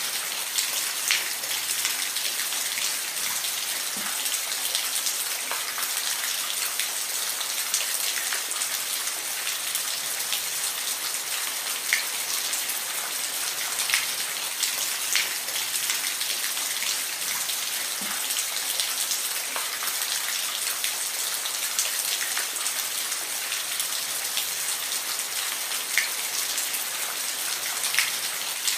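Steady rain falling, a continuous hiss with individual drops ticking sharply on a surface here and there.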